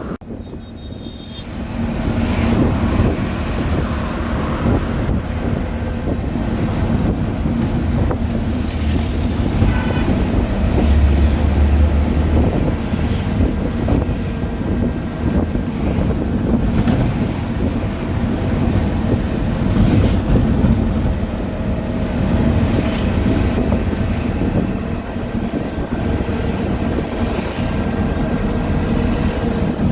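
A motor vehicle running steadily with a continuous low engine hum and rumble. It gets louder suddenly about two seconds in.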